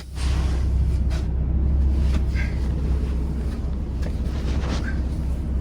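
Semi truck's diesel engine running with a steady low rumble, with a few brief faint noises on top.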